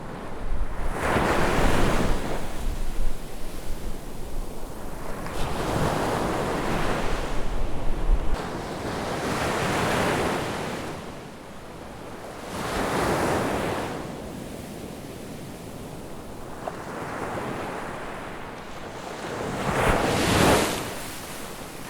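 Ocean surf on a beach: waves break one after another, each a swelling rush of hiss about every three to four seconds. Wind rumbles on the microphone during the first several seconds.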